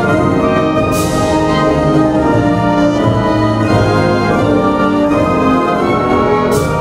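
A school wind ensemble playing a brass-led band arrangement, holding sustained chords. Two crashes come through, about a second in and near the end.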